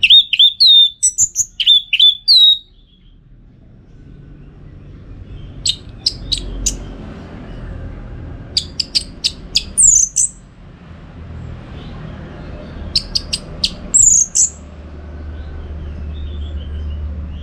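Orange-headed thrush (anis merah) singing in short phrases a few seconds apart. Each phrase is a run of quick sharp chips followed by high, slurred whistled notes. This is the loud, steady singing that keepers call gacor.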